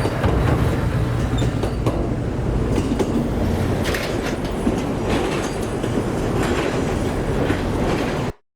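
A train running past on the rails: a steady low rumble with the wheels clicking over rail joints, which grows clearer about halfway through. The sound cuts off suddenly near the end.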